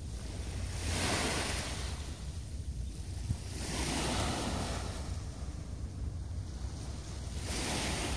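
Waves washing onto the shore, swelling and falling back about every three seconds, with wind rumbling on the microphone.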